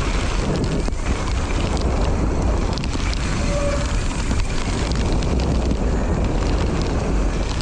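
Mountain bike descending a dirt downhill trail: wind noise on the camera microphone over the rumble and rattle of tyres and bike on the ground, with a brief squeak about halfway through.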